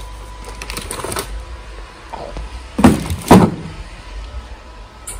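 A multipack of tinned cat food being handled and set down into a shopping trolley: some rustling handling noise, then two heavy thuds about half a second apart, roughly three seconds in.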